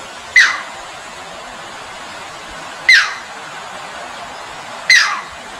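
Three loud, sharp bird calls, each a quick downward-sweeping note, about two to two and a half seconds apart, over the steady rush of shallow flowing water.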